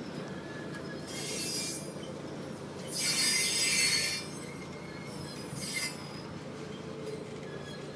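Cars of the Canadian Pacific Holiday Train rolling past with a steady low rumble. Three bursts of high, hissy wheel noise come through, the loudest from about three to four and a half seconds in.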